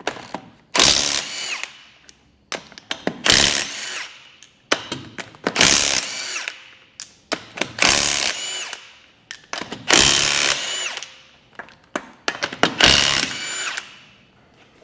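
Power impact wrench undoing the wheel nuts to take the wheel off: six short bursts about two seconds apart, one per nut.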